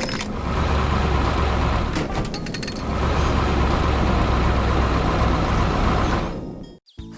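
Heavy construction-machine engine sound effect running steadily, with a brief rattle about two seconds in. It fades and cuts out just before the end.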